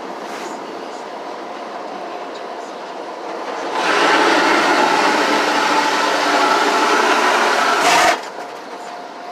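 Automatic car wash washing the car, heard from inside the cabin: a steady rushing noise that grows much louder about three and a half seconds in and cuts off suddenly about eight seconds in.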